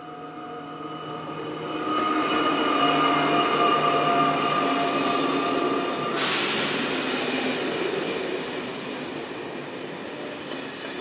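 A train passes close by on the track. Several steady whining tones build over the first two seconds. About six seconds in, a sudden loud rush of rolling noise takes over, then eases off gradually.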